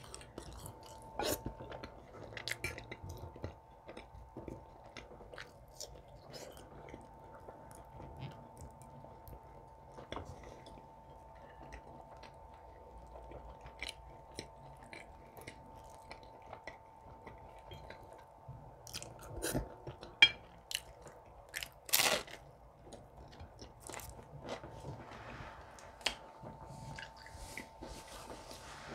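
A person chewing and biting food, with scattered small crunches and mouth clicks, and a few louder sharp crunches about two-thirds and three-quarters of the way through.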